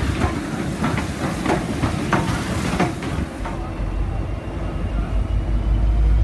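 R class steam locomotive R761 and its carriages rolling slowly through the station, the wheels clacking over rail joints and points several times. About three and a half seconds in this gives way to the low steady rumble of a V/Line N class diesel-electric locomotive's engine as it pulls in.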